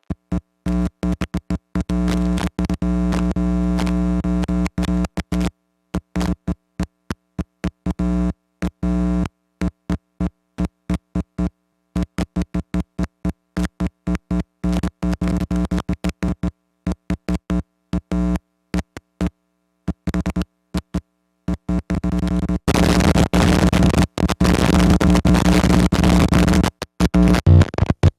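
Electronic technology sound effects: rapid stuttering bursts of buzzy tones that start and stop abruptly, like glitching digital data, turning into a denser, noisier buzz near the end.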